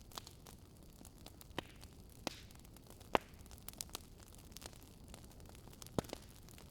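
Wood fire crackling in a fireplace: a low steady hiss with scattered sharp pops, the loudest about three seconds in and another near six seconds.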